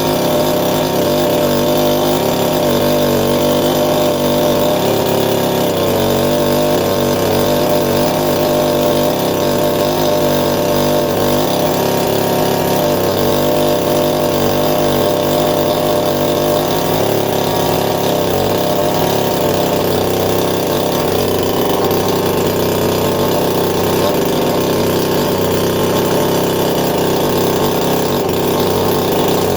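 Petrol chainsaw engine running at a steady high speed while cutting into a wooden tree stump.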